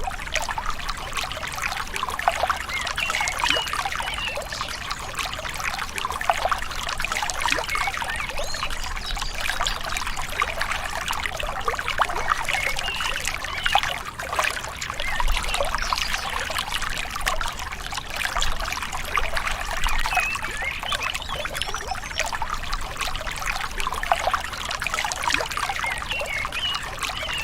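Gentle river flowing: steady trickling and babbling water, with many small splashes.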